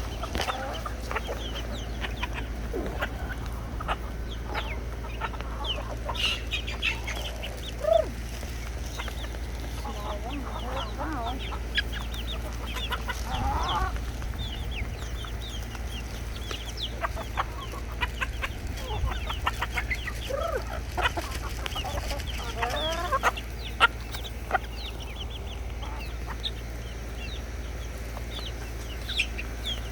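A flock of backyard chickens clucking and cheeping, with many short overlapping calls, over a steady low hum.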